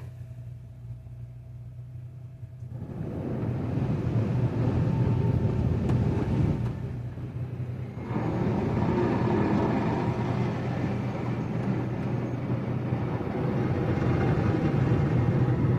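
Automatic car wash equipment working on a car: a steady low hum, joined about three seconds in by a loud rushing, rumbling wash noise. The noise eases briefly around the middle, then comes back and holds.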